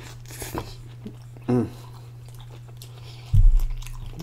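Close-miked chewing and biting of a beef donair wrap in pita bread: soft, wet mouth sounds. A short voiced "mm" comes about a second and a half in, and a low thump a little over three seconds in is the loudest sound. A steady low hum runs underneath.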